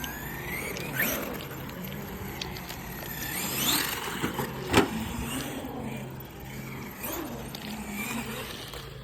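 Electric motor of a radio-controlled car whining and rising in pitch as it speeds up, over a steady rolling hiss. Sharp knocks about a second in and again near five seconds, the second the loudest.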